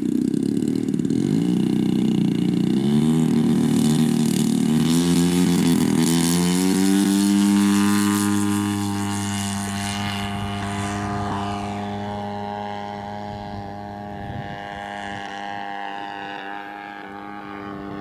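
Gas engine of a giant-scale radio-control warbird in flight, its pitch wavering and climbing for the first several seconds, then holding steady at high throttle while it fades as the plane draws away. The engine is running a little rich, still a little fat on the high end of its needle setting.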